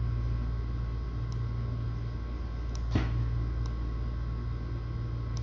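A steady low electrical-sounding hum, with one sharp click about three seconds in and a few faint ticks.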